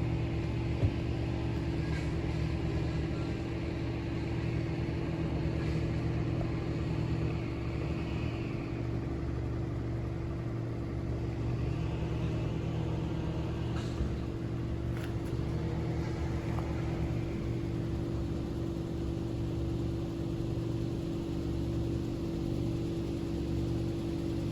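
Steady low hum of an idling engine, unchanging in pitch, with a couple of faint clicks.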